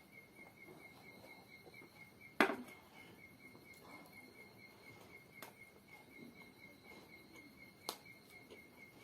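Eating sounds: soft chewing with a sharp click about two and a half seconds in and two fainter clicks later, over a steady, rapidly pulsing high chirp.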